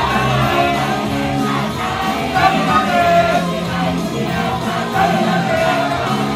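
Live J-pop idol song played at full volume: a loud backing track with a female voice singing the melody over it, in a large room.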